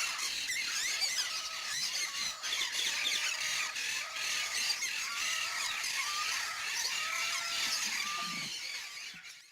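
Many aviary birds calling at once, a dense chatter of high chirps and squeals with short arched calls repeating below it.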